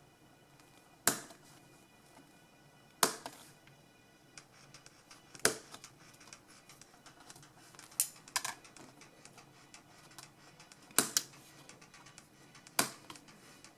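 Sharp, single snips of plastic detail parts being cut off a model kit's sprue, about eight cuts spaced irregularly one to three seconds apart, two of them in quick pairs.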